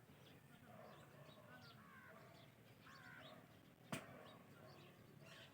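Indian ringneck and alexandrine parrots chirping faintly: short, scattered chirps and calls, with one sharp click about four seconds in.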